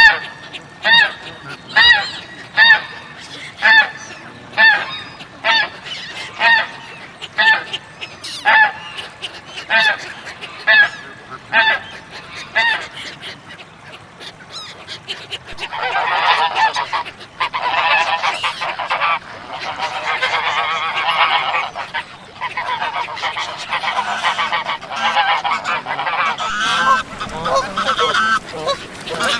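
Geese honking: regular single honks about once a second for the first dozen seconds, then from about halfway dense, overlapping honking of several birds.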